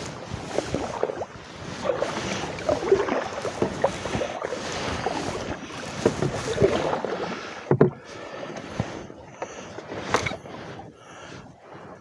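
Canoe paddle strokes in calm water, a swell of splashing and gurgling about every two seconds, with one sharp knock about eight seconds in; the strokes fade near the end.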